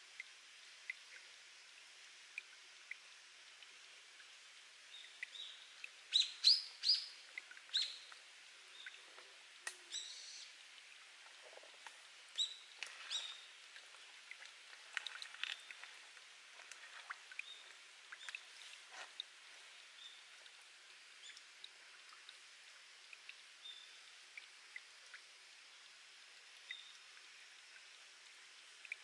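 Water dripping and trickling from a rock spring, heard as many small scattered drops over a faint steady trickle, with wild birds chirping; the loudest calls come in a short burst about six to eight seconds in and again around twelve seconds.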